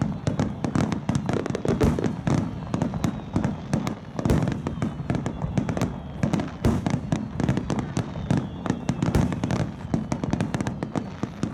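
Finale barrage of aerial firework shells bursting in rapid, overlapping succession: a dense, unbroken run of bangs.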